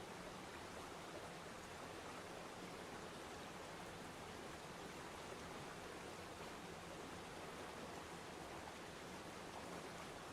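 Waterfall, water falling in a steady, unbroken rush of noise.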